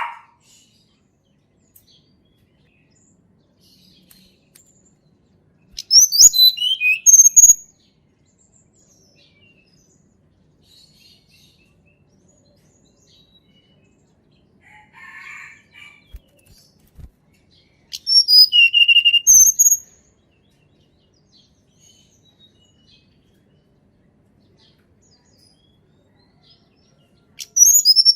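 Tledekan gunung singing: three short phrases of high, thin, quickly changing notes, each lasting under two seconds and spaced about ten seconds apart. A fainter, lower call comes once between the second and third.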